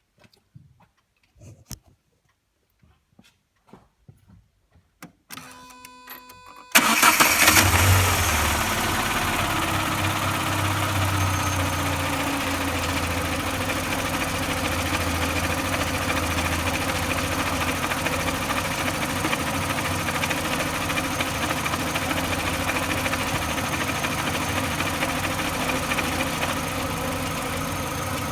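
Renault Clio 2 RS 2.0-litre four-cylinder engine cranked and started with the clutch pedal pressed: a few faint clicks and a brief steady tone as the ignition comes on, then the engine catches about seven seconds in, flares and settles into a steady idle.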